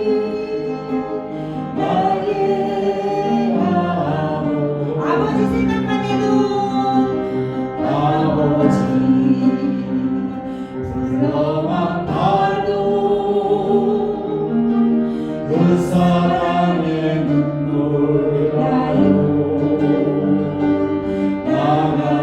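A church congregation singing a Korean worship song together in long held phrases, with instrumental accompaniment.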